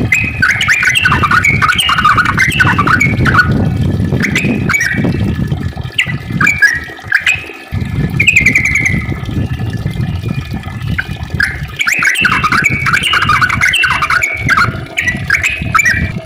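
Sooty-headed bulbul (trucukan) singing long runs of quick chattering phrases, with a pause about ten seconds in before the song picks up again, over a steady low rumble.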